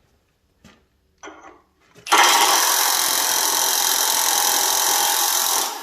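Half-inch impact wrench hammering continuously on a heated, seized nut on a hydraulic cylinder. It starts about two seconds in after a few light clicks and dips briefly near the end. The nut does not break loose.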